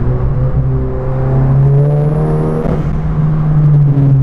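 A modified VW MK7 GTI's turbocharged 2.0-litre four-cylinder engine pulling hard under acceleration. Its note climbs in pitch, then breaks briefly about two-thirds of the way in, as at a gear change.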